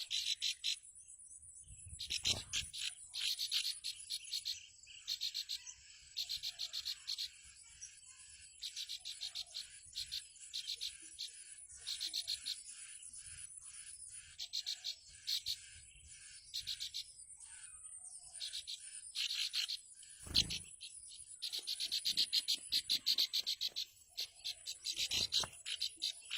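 Prinia (ciblek) giving harsh, rapid ticking alarm calls in short bursts about a second long, repeated again and again; these are a parent bird's calls of alarm near its nest. A steady high insect whine runs underneath, and a few dull low thumps come in about two seconds in, near twenty seconds and near twenty-five seconds.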